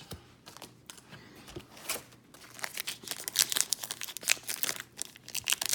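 A card pack's wrapper being handled and torn open, starting with a few light clicks and rustles and turning about two seconds in into dense, continuous crinkling.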